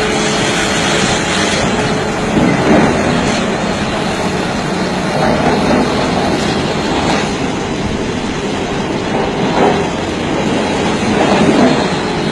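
Heavy machinery running steadily as big rocks are crushed, with several short louder knocks and crunches spread through.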